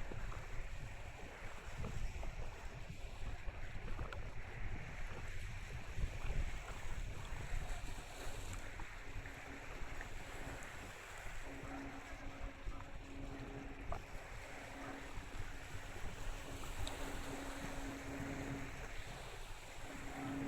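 Wind buffeting the microphone over the low rumble of the Kanaya-maru car ferry and the water as it comes into port. From about eight seconds in, a steady low hum comes and goes.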